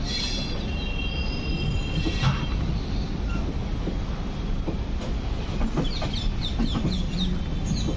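Passenger train rolling slowly into a station, heard from the doorway of one of its coaches: a steady low rumble of the running gear, with high wheel squeal in the first couple of seconds and a string of short high squeaks near the end.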